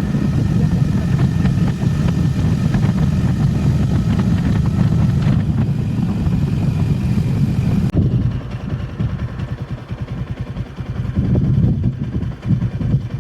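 Motorcycle engine running steadily while being ridden. About eight seconds in, the sound changes abruptly to a quieter, more uneven engine note.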